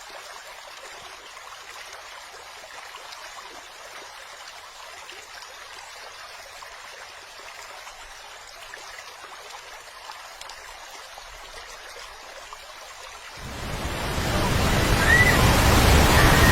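Rushing water of a waterfall, a steady hiss. About thirteen seconds in it grows much louder and fuller, with a deep rush added.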